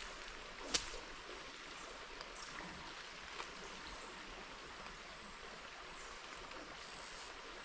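River water running steadily, a stream's rushing flow, with a single sharp click a little under a second in.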